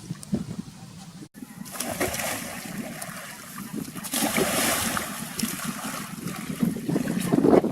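Water splashing and sloshing, irregular and fairly loud, after a brief break about a second in.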